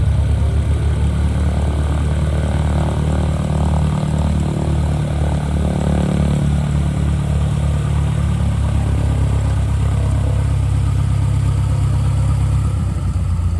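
Propeller aircraft piston engine running steadily, with a pulsing beat in the middle.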